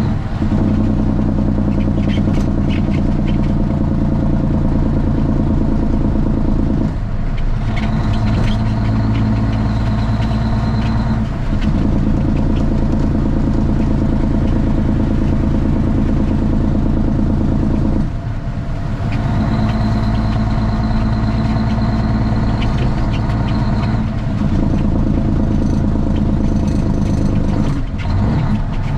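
Straight-piped Cummins ISX diesel in a Kenworth T800 truck running loud and steady, heard from the cab, its note shifting in pitch with brief dips several times as it works through the gears.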